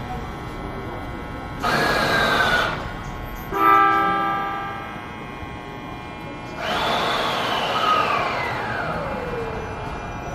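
Electric train with a GTO-VVVF inverter: a short horn blast about three and a half seconds in, then the inverter's whine, falling steadily in pitch over about three seconds as the train brakes.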